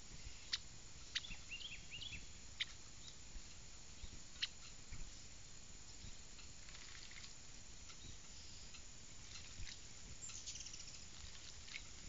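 A small bird bathing in a birdbath: sharp little splashes of flicked water every second or two, with short high chirps around them and a quick run of rapid notes near the end.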